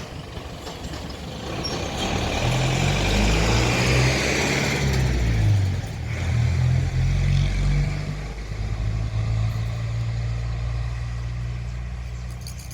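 A pair of GE AC44i diesel-electric locomotives passing close by, their engines running with a low, pulsing drone. It grows loud about two seconds in, with a rushing hiss until about five seconds in, then settles to a steadier drone as the train goes on by.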